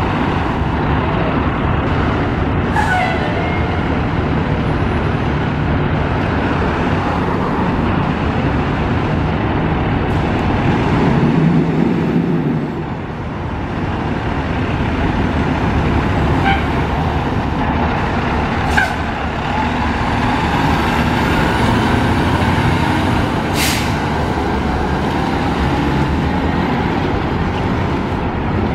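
Fire truck's diesel engine running with a steady low rumble, broken by a few short, sharp hisses from its air brakes.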